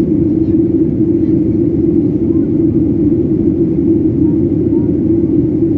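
Steady cabin noise of a Boeing jet airliner in flight: an even, low roar of engines and airflow heard from inside the passenger cabin.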